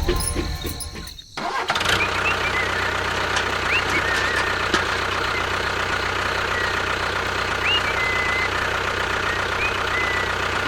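A small motor starts about a second and a half in and then runs steadily, with a few short high squeaks over it.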